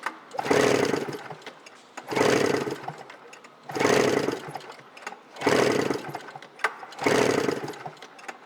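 1998 Yamaha Mountain SRX 700 triple two-stroke engine being cranked over five times in a steady rhythm, each turn lasting about a second. This is a compression test on the center cylinder, which reads 125 psi.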